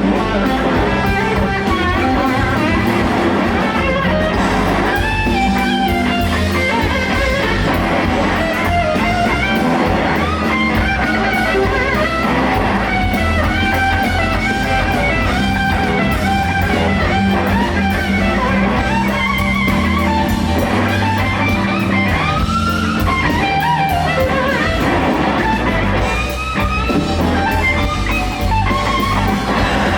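Live blues band: an electric guitar plays a lead solo with bending, gliding notes over bass guitar and drum kit.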